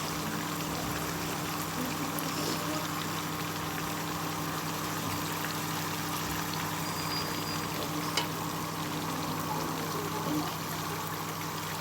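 Something frying in a pot, a steady sizzle, with a low steady hum underneath and a single sharp click about eight seconds in.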